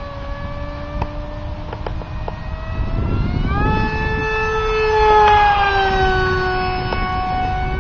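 Brushless electric motor and 6x4 propeller of a foam RC jet whining in flight. The pitch rises about three seconds in and then slowly sinks. The motor is on a prop that draws about 60 watts more than its rating.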